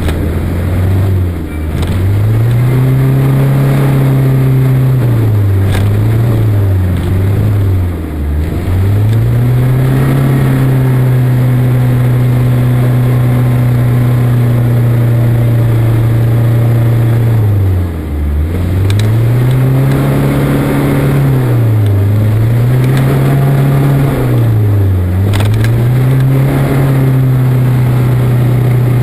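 Land Rover Defender 110's engine held at high revs, dropping briefly and climbing back again about six times, while the vehicle, stuck in a forest rut, does not move.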